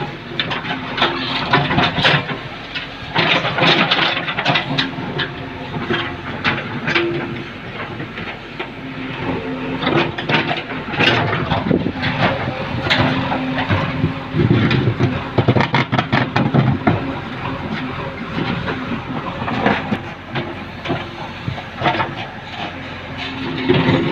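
JCB backhoe loader digging, its diesel engine running steadily under load while the bucket scrapes and clanks irregularly through soil mixed with rubble.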